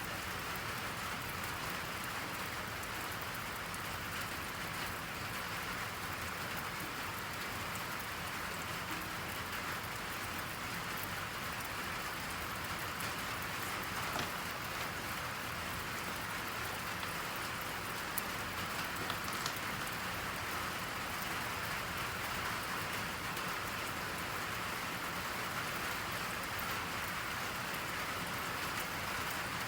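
Steady rain falling, an even hiss of raindrops with a few faint drip ticks.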